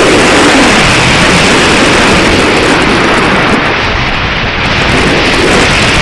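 Strong wind buffeting the microphone: a loud, rough rushing noise that eases slightly about four seconds in.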